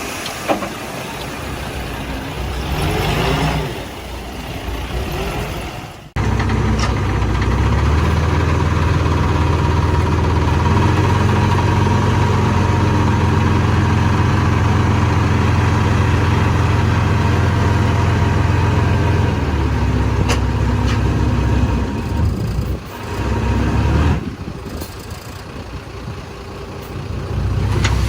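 Heavy diesel engine of earthmoving machinery running under load. Its low hum holds steady for most of the middle, then eases off and changes abruptly twice near the end.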